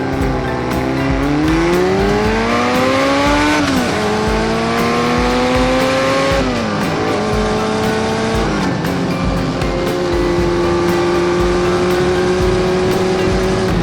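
Kawasaki ZRX400 inline-four engine accelerating through the gears: its pitch climbs, drops sharply at upshifts about 4 and 6.5 seconds in and again near 9 seconds, then holds steady at cruising speed. Background music with a steady beat plays underneath.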